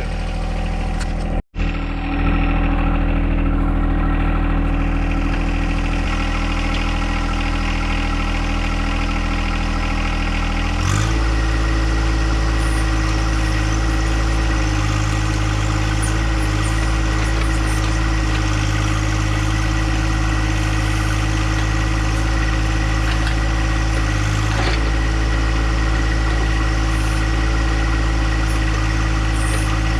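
Compact John Deere tractor's engine running steadily. About eleven seconds in its note shifts and the low rumble grows stronger, then it holds steady again. There is a brief break in the sound near the start.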